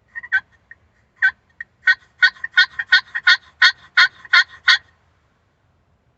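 A hand-worked turkey call running a series of hen-turkey yelps: a few soft scattered notes, then about nine loud yelps at nearly three a second that stop suddenly.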